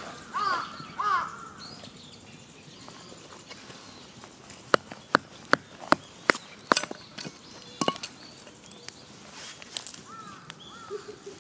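A crow cawing a few times at the start and twice more, fainter, near the end. In between comes a run of sharp clicks and snaps, roughly two a second.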